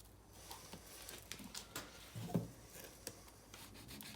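Faint handling noises from a small plastic water filter cartridge being worked open: scattered light clicks and rubbing.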